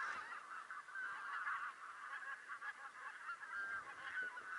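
A flock of geese calling, many overlapping honks merging into a steady chorus.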